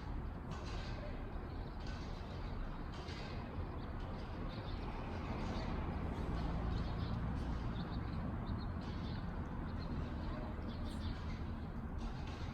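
Steady low rumble of background noise that swells a little in the middle, with faint high chirps and ticks over it.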